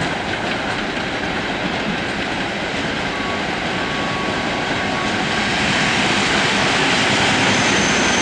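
Train running on the rails, a steady rumble and rattle of wheels that grows a little louder about six seconds in, with a faint thin tone briefly in the middle.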